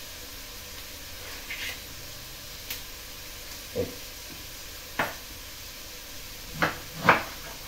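Vegetables frying in a pot, a soft steady sizzle, with a handful of knife taps and knocks on a wooden cutting board as an artichoke is trimmed. The sharpest knocks come near the end.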